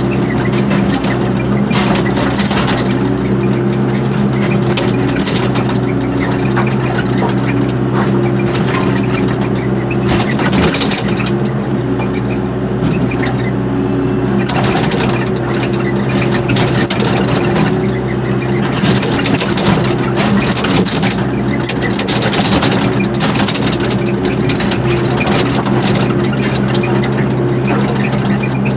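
Excavator's diesel engine running at a steady pitch, with irregular bursts of clattering noise over it.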